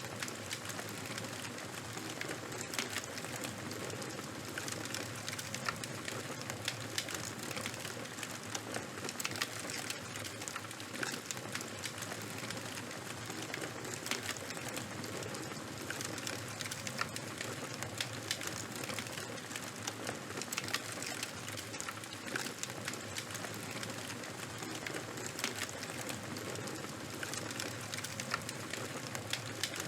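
Charcoal fire crackling: a steady hiss dotted with frequent sharp pops and snaps.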